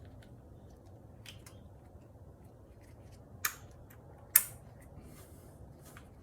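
A few sharp plastic clicks, the loudest about four seconds in, as electrical connectors are clipped back onto the Mercedes M271 engine's camshaft sensor and coil pack.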